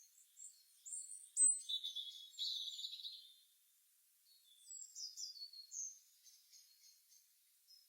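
Small songbirds chirping and singing in quick, high notes and short trills. A dense run of calls about a second in breaks off briefly, then resumes with more scattered chirps.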